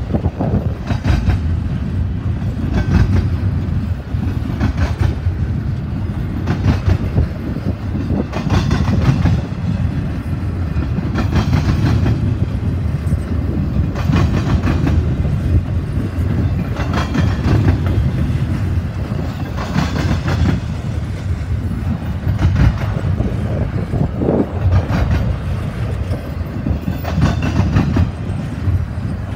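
Double-stack intermodal well cars rolling past close by: a steady low rumble of steel wheels on the rail, with clusters of clicks as the wheel sets pass, recurring every couple of seconds.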